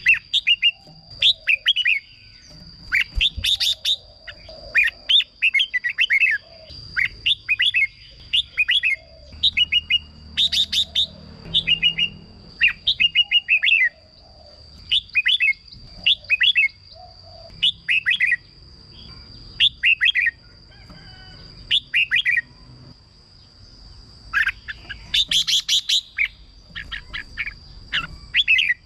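Red-whiskered bulbul singing: short, quick phrases of bright chirpy notes, one about every second, with a thin steady high tone running beneath.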